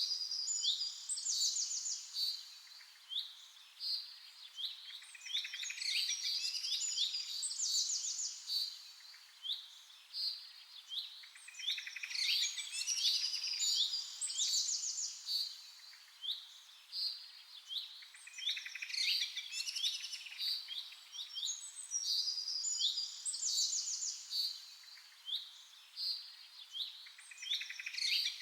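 Songbirds singing and chirping in bouts every few seconds, with rapid trills and quick sweeping high notes.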